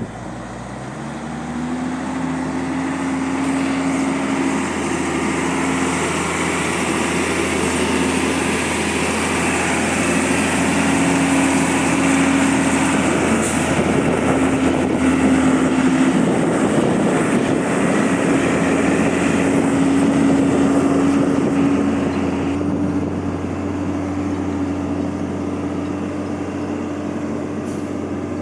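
Hino truck's diesel engine running steadily under way, a continuous drone whose pitch holds nearly level with small shifts.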